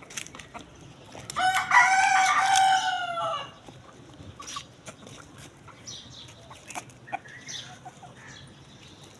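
A rooster crowing once, a loud call about two seconds long starting about a second in, dropping slightly in pitch at the end. Scattered faint clicks and short calls follow.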